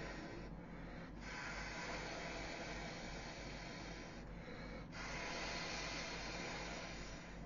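Steady rush of air as an inflatable crocodile toy is blown up with an air pump, with a low hum beneath. The airflow breaks off briefly twice, about half a second in and at about four seconds.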